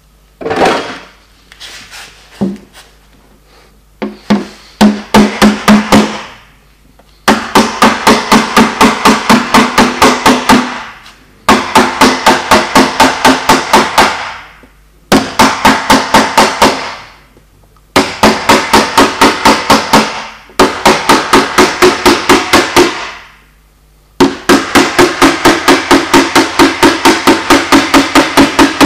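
Small hammer tapping on car-body sheet metal in paintless dent repair, knocking down high spots. The taps come in rapid runs of about four or five a second, each run lasting a few seconds with short pauses between, every strike ringing metallically.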